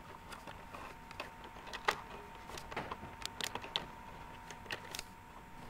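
Scissors snipping at plastic toy packaging to free the parts, with handling of the plastic: a scattered series of small sharp clicks and snips.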